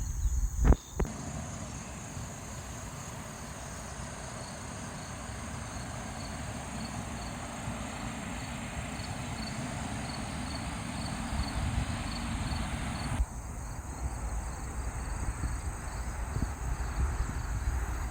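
Crickets chirping in a steady, even rhythm of about two high chirps a second over a low outdoor rumble. A sharp knock sounds about a second in.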